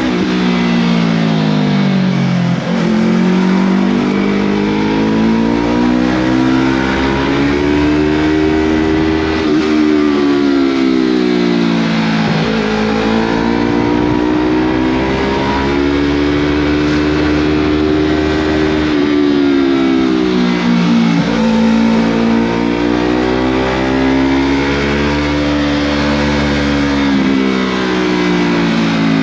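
Yamaha MT-03 motorcycle running through a Scorpion full-system aftermarket exhaust while being ridden. The engine note drops sharply and climbs back three times as the rider rolls off and back on the throttle.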